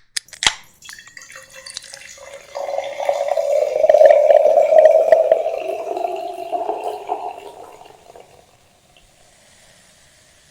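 A few sharp clicks, then liquid being poured into a container. The pouring starts about a second in, is loudest around four to five seconds in, and tails off about eight seconds in.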